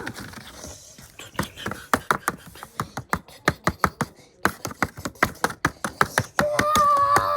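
A run of sharp, rapid clicks, a few a second, typical of a model train's wheels passing over track joints. Near the end a steady, slightly wavering horn-like tone starts.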